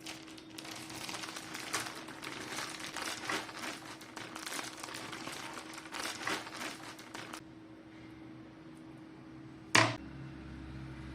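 Crinkling and rustling of handled material for about seven seconds, then a single sharp click near the end.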